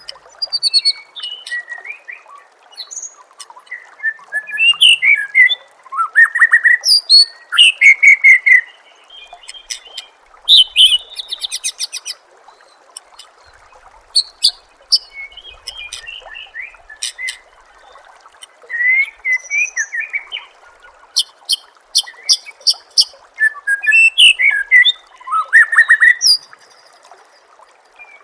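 White-rumped shama (murai batu) singing a varied song: loud whistled phrases that glide up and down, mixed with rapid chattering trills, in short bursts with brief pauses. A faint steady trickle of water runs underneath.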